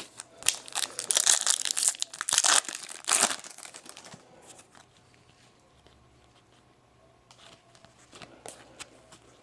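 Foil trading-card pack wrapper being torn open and crinkled in the hands, a dense crackle for the first three seconds or so, then quieter handling with a few light ticks as the cards come out.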